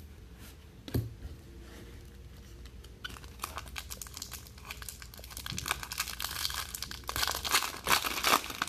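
A foil trading-card pack wrapper crinkling and tearing as it is opened, the crackle coming thick and fast through the second half, after a single sharp click about a second in.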